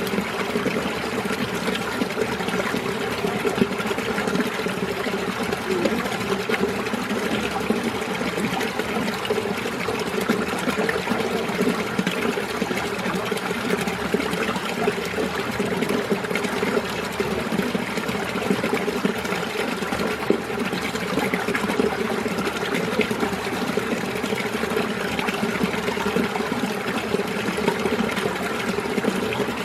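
Winter mountain stream running steadily: an unbroken rush of flowing water.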